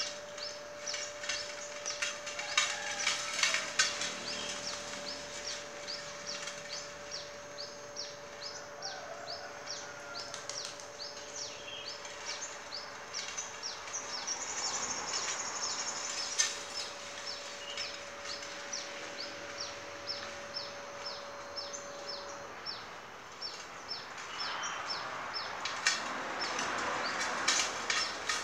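A bird repeating short high chirps, about three a second, steady throughout, over a faint steady hum that stops about three-quarters of the way through. Near the end a louder rustling crunch with clicks builds as a small homemade electric tractor with a quiet magnet motor rolls close over the dirt path.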